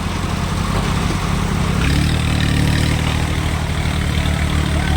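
Tractor diesel engine running, stepping up to a higher, steady speed about two seconds in as it is revved.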